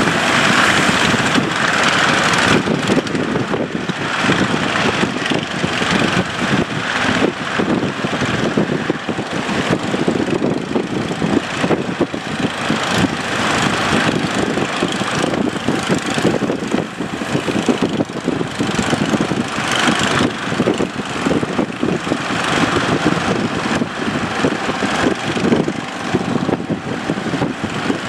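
A boat's engine running steadily and continuously.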